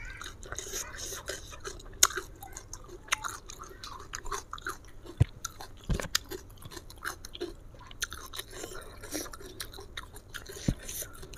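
Close-up chewing of raw bitter melon: crisp, wet crunching, with a few sharper bite snaps, the loudest about two, five, six and ten seconds in.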